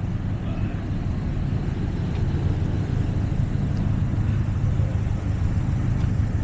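Steady low rumble of a car's engine and road noise, growing slightly louder about two seconds in.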